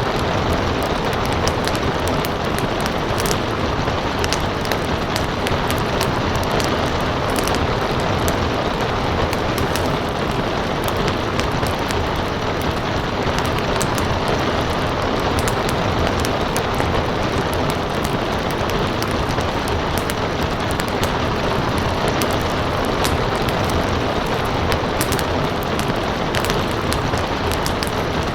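Steady rain, with a crackling wood fire popping and snapping in many sharp, irregular clicks over it.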